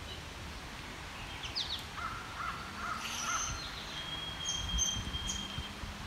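Songbirds singing in woodland: a few quick falling chirps, a run of four short arched notes, then one long steady whistle lasting well over a second near the end, over a faint low rumble.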